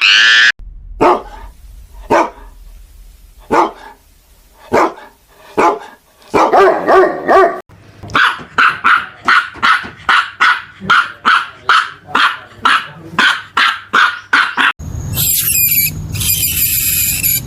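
An animal's short, sharp barking calls, spaced a second or more apart, with one longer, rougher call midway. These are followed by a quick, regular run of barks about two to three a second. About fifteen seconds in, it cuts to a different high-pitched animal call with several tones.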